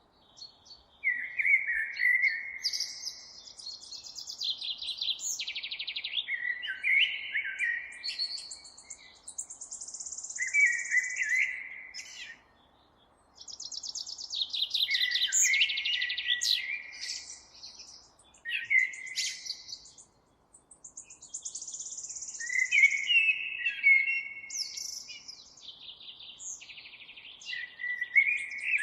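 Songbirds singing: a run of high, fast trills and warbled phrases one after another, broken by short pauses about halfway through and again about two-thirds of the way in.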